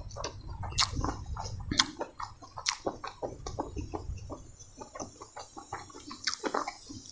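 Close-up chewing of a mouthful of chicken curry and rice, with mouth clicks and lip smacks in an irregular run of short clicks.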